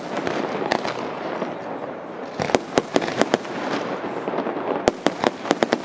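Aerial fireworks going off: sharp bangs in quick runs, a few within the first second, a cluster about two and a half seconds in and a faster run near the end, over a steady background hiss.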